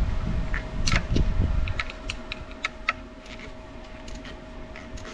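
Wind buffeting the microphone for the first second and a half, then a run of light, irregular clicks and taps, about two or three a second, over a faint steady hum.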